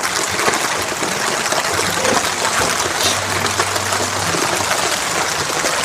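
Water running steadily into a basin as ground provisions (coco, Irish potato and dasheen) are washed off.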